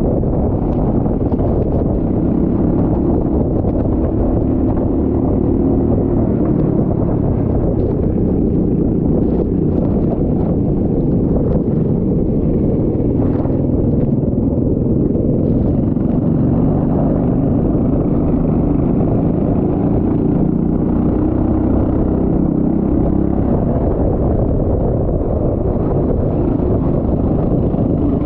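Go-kart engine running hard, its pitch rising and falling with the throttle.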